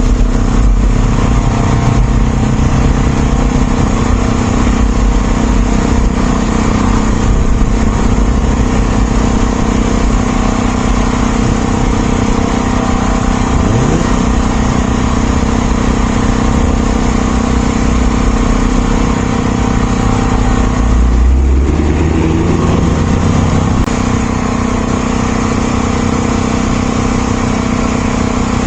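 A motor vehicle's engine running steadily while driving, with road rumble, and a short swell in the low rumble about three quarters of the way through.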